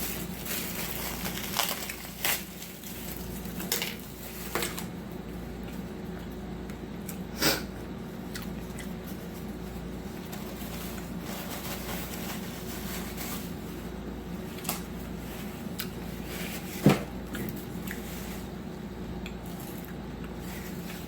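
Close-up eating sounds: chewing with several sharp clicks of utensils against dishes, over a steady low hum.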